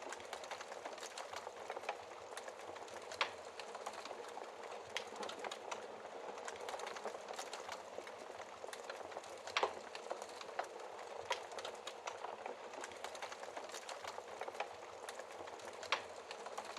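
Wood fire burning in a fireplace: a steady rush of flame with irregular crackles and pops from the logs, a few sharper pops standing out.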